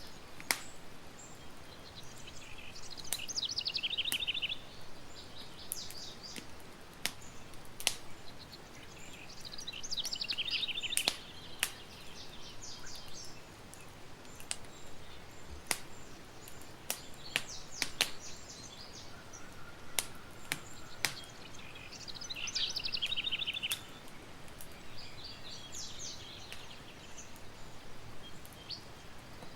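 Campfire crackling with sharp, irregular pops over a steady hiss, while a songbird sings short trilled phrases every several seconds.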